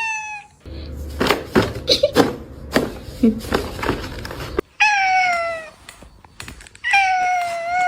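A cat meowing in long, drawn-out meows: one falling meow about five seconds in and a longer one near the end. Between them come a couple of seconds of knocks and clatter.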